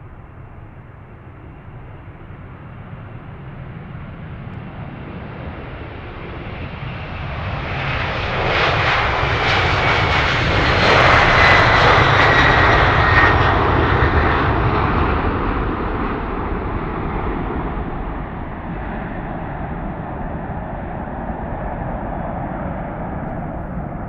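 Jet airliner passing close by: the engine noise builds, is loudest about halfway through with a thin whine that falls in pitch as it goes past, then eases off to a steady rumble.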